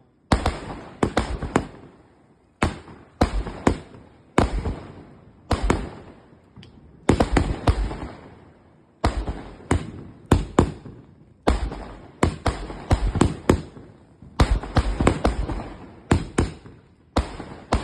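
Multi-shot aerial firework cake going off: sharp bangs in quick clusters every second or two, each trailing off into a fading crackle.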